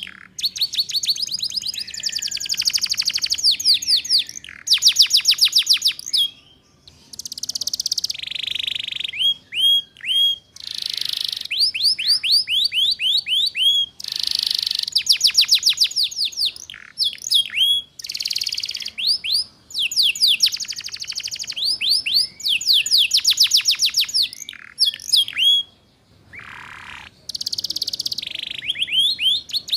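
Canary singing a long, continuous song of fast trills and rapid downslurred notes, broken by short rasping phrases and brief pauses: 'ngeriwik' trilling of the kind played as a tutor song for young canaries.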